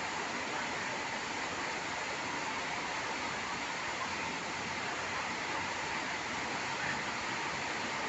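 Heavy downpour: a steady, even hiss of rain falling on the pavement and parked cars.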